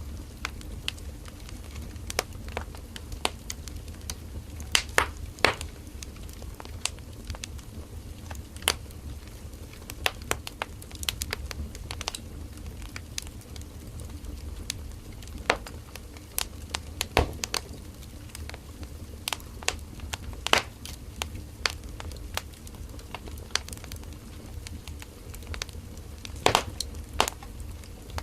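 Burning firewood crackling and popping: irregular sharp snaps, a few louder pops among them, over the low steady rumble of the flames.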